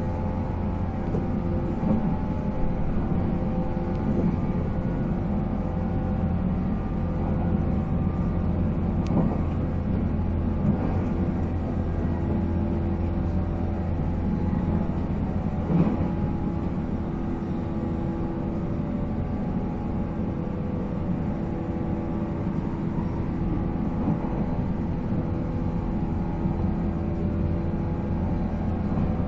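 485-series electric train's MT54 traction motors whining at a steady pitch over the rumble of the wheels on the rails, the train running at an even speed between stations, with an occasional knock from the track.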